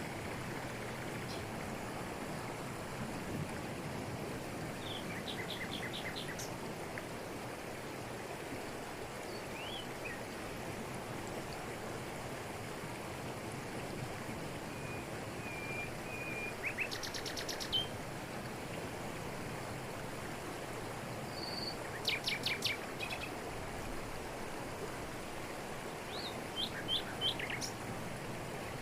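Steady rush of a waterfall spilling over rocks in tropical forest, with forest birds breaking in now and then with short bursts of quick, high chirps, the loudest about a third and three quarters of the way through.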